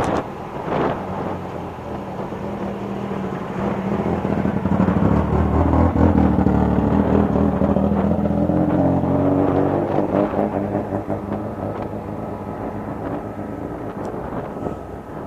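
A car engine running at low speed close by, its pitch rising and falling as the car moves off slowly over paving. It is loudest about six seconds in and fades toward the end.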